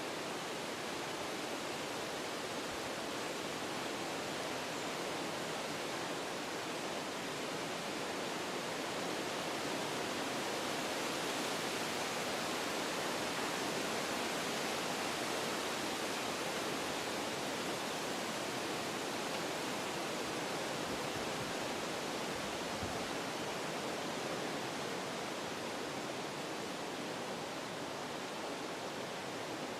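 Wind blowing through forest trees, a steady rush of moving leaves and branches that swells gently and eases off again.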